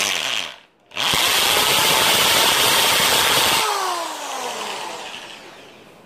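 Electric drill boring into a guava-wood branch: a short burst at the start, then about two and a half seconds of steady drilling. The motor then winds down with a falling whine once the trigger is released.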